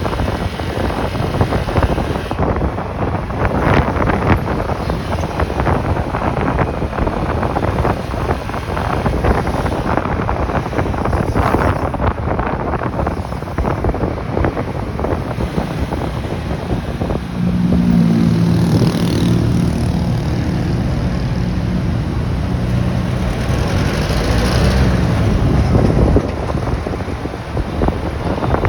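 Wind buffeting the microphone of a moving motorcycle, over road and engine noise. From about 17 seconds in, a louder low engine drone joins in for about eight seconds.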